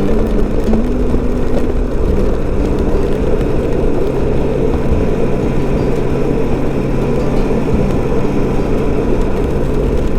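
Honda Gold Wing motorcycle cruising at a steady speed: an even engine hum under heavy wind rush.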